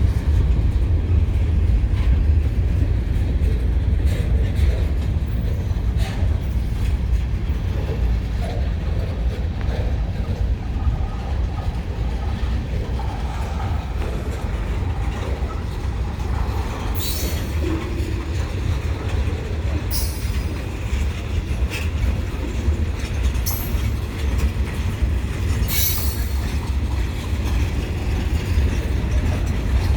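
Great Lakes Central Railroad train rolling past with a steady heavy low rumble and some clacking over the rail joints. In the second half come four short high-pitched wheel squeals.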